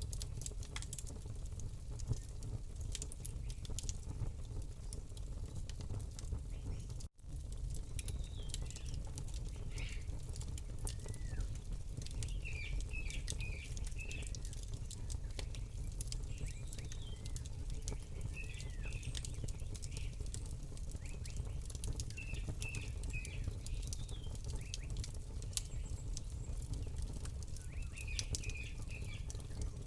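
Campfire crackling with sharp irregular pops over a steady low rumble, while small birds chirp in short repeated phrases now and then. The sound cuts out for an instant about seven seconds in.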